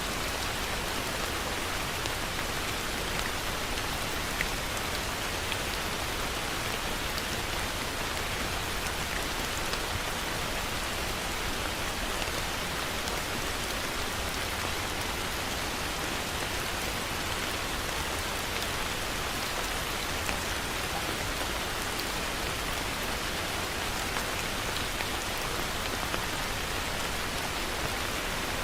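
Heavy rain falling steadily, a dense even hiss with scattered individual drop ticks on surfaces.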